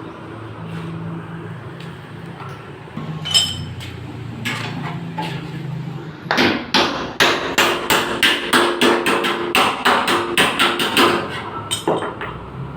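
Hammer beating out the Alto's dented sheet-metal body panel. A single ringing blow comes first, then from about six seconds in a fast run of metallic blows, about three or four a second, that stops shortly before the end.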